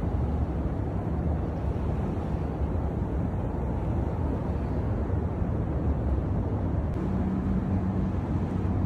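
Outdoor city ambience: a steady low rumble of street traffic and wind on the microphone, with a low engine-like hum joining about seven seconds in.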